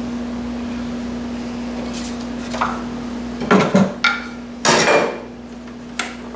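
A steady low hum, then a run of irregular clattering knocks and scrapes of hard metal and wood objects as tools are handled at the lathe. The loudest come in the middle, with a last sharp knock near the end.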